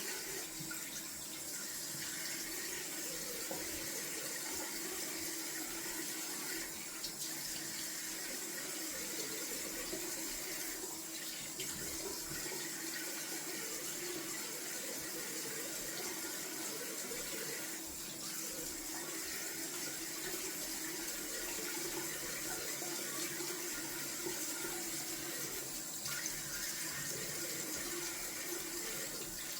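Bathroom tap running steadily into a sink as cold water is splashed on the face to rinse it, with faint splashes now and then.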